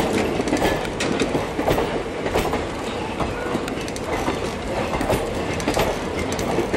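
Indian Railways passenger coaches rolling past on steel wheels, with irregular clicks and knocks as the wheels cross rail joints and points. A faint steady whine runs underneath, like wheel squeal on the curve.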